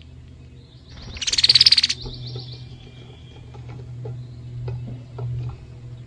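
A bird gives a loud, buzzy, rattling call about a second in, lasting about a second and trailing off into a thin whistle. Softer short chirps and small clicks follow.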